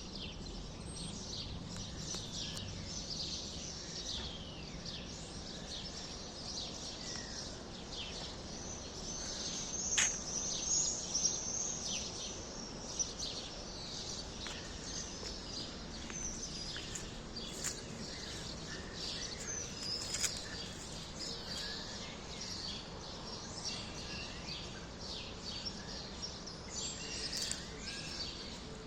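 A chorus of small birds chirping, many short high chirps overlapping without a break, with a louder burst of song about ten seconds in, over a steady low background noise.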